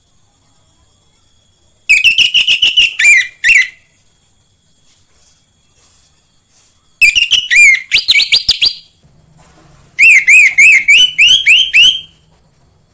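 Orange-headed thrush (anis merah) singing: three loud phrases of quick, repeated whistled notes, each a second or two long. A faint steady high hiss runs beneath them.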